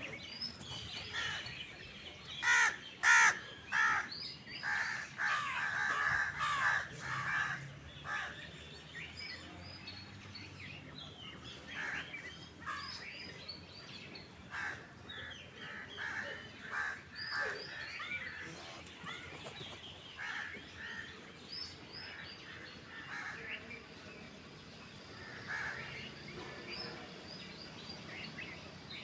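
A mix of wild birds calling: a run of loud, harsh calls about two to four seconds in, then many shorter chirps and calls scattered through the rest.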